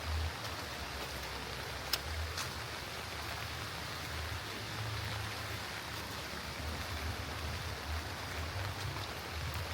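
Steady light rain falling, an even hiss with a couple of sharp drop ticks about two seconds in, over a low uneven rumble.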